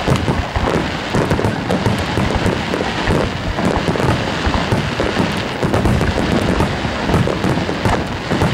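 Rapid-fire barrage of aerial firework shells bursting: dense, overlapping booms and pops with no pause between them.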